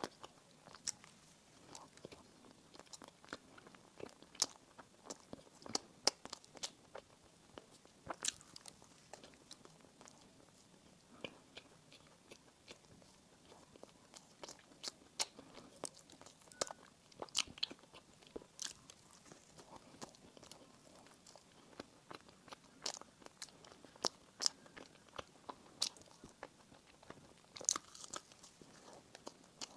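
Close-up eating sounds: biting into and chewing soft bakery bread and pastries, with many small, sharp, irregular mouth clicks.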